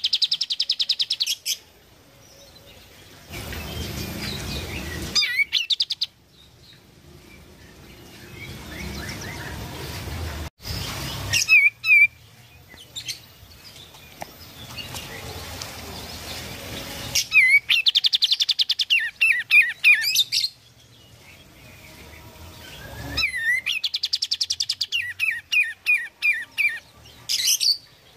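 Kapas tembak songbird singing in bursts of rapid, chattering high notes, several phrases in a row, with quieter pauses between them.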